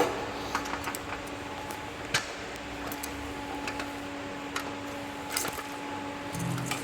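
Scattered light clicks and taps of an Allen key and hand tools working at the top fitting of a two-post lift's hydraulic cylinder, over a steady low hum.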